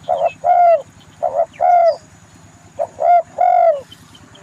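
A dove cooing in three short phrases, each a brief note followed by a longer drawn-out one, every note dipping slightly in pitch.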